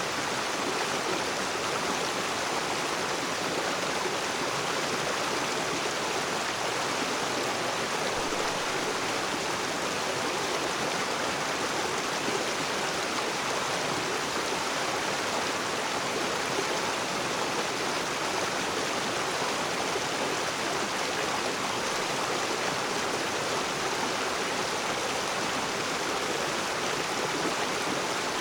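River water rushing and splashing over rocks in a steady, even rush with no breaks.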